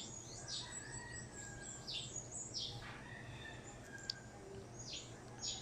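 Birds chirping faintly in the background: short, high chirps that sweep downward, several times over a few seconds, over a low steady hum.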